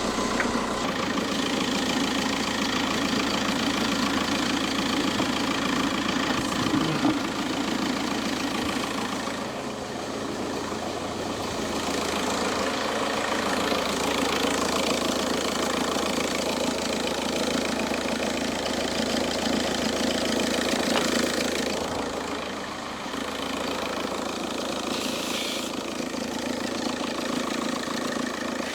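SEAT car engine idling steadily, with the noise from its loose accessory-belt tensioner, which the owner blames for the engine's ugly sound. The level dips briefly twice.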